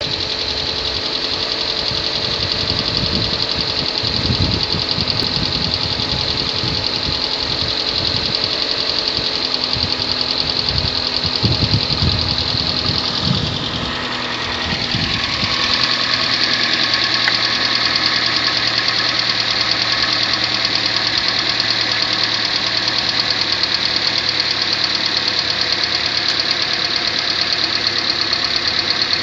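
Kia Sportage 3 (2014, facelift) engine running with a steady rhythmic knock, at only 13,000 km. The owner is unsure whether the knock is normal for this model. About halfway through, the low thuds stop and a steadier hum takes over.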